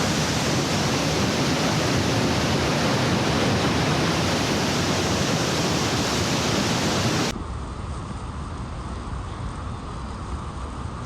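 Loud, even rush of Niagara Falls' water crashing close by, cutting off suddenly about seven seconds in to a quieter, duller rumble.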